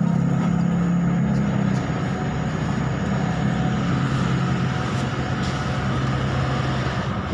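A running engine: a steady low drone that eases slightly about two seconds in.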